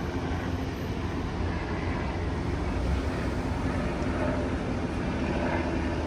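Motor vehicles driving past in a motorcade: a steady rumble of engines and tyres.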